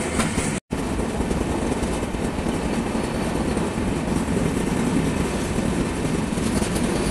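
Passenger train running at speed through a tunnel, heard from an open coach doorway: a dense, steady rush of wheel, rail and air noise. The sound cuts out for an instant about half a second in.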